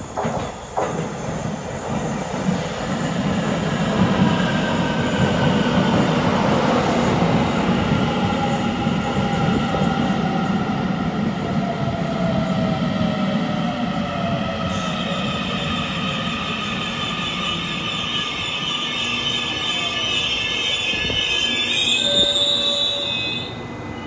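Taiwan Railway electric train pulling into a station. Its motor whine falls slowly in pitch as it brakes, over steady wheel and running noise. Near the end comes a high brake squeal, and the noise drops off as the train comes to a stop.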